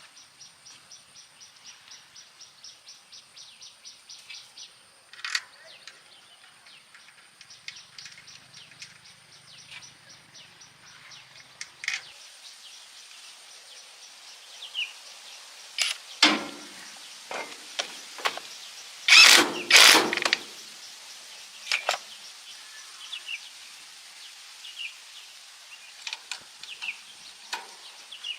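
Crickets or other insects chirping in a rapid, even pulse with a high steady trill behind, plus scattered short bird chirps. About two thirds of the way through, a cluster of loud sharp knocks and clatter, as of metal parts or tools being handled, is the loudest thing heard.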